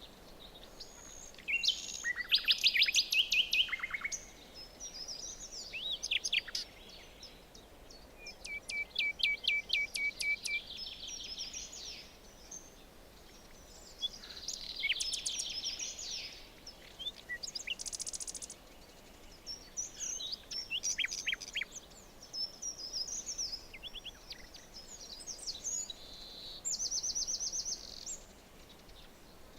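Songbirds singing in a forest: a series of separate phrases of chirps and fast trills of rapidly repeated high notes, with short quieter pauses between them, over a faint steady background hiss.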